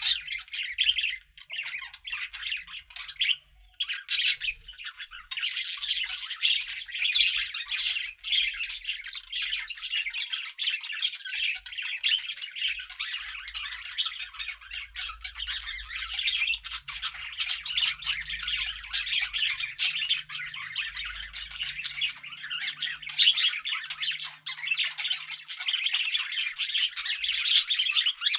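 Pet budgerigars chirping and chattering continuously, a dense stream of short, high warbles and squawks from several birds.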